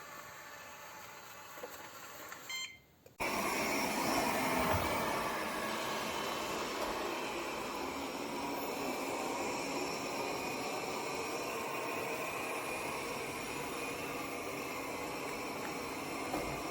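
Airzeen R7 robot vacuum running, a steady whir of its suction motor and brushes that comes on suddenly about three seconds in. Before it, a faint hiss with a few short beeps.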